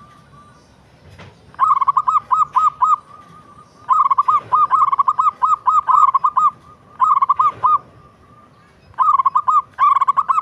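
Zebra dove (local perkutut) cooing in four bouts, each a quick run of short, repeated coos, with brief pauses between bouts.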